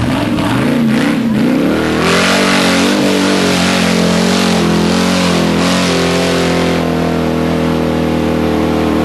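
Mud truck's engine revving: its pitch wavers, then climbs over the first two seconds and is held at high revs, with a loud hiss alongside.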